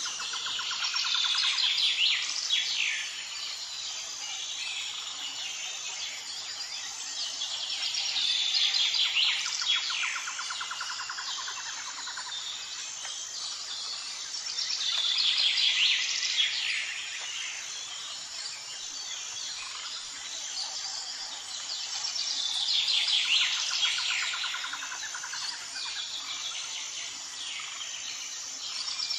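Birdsong ambience: bursts of chirping and fast trilling, each a few seconds long, repeating about every seven seconds, over a faint steady high chirring.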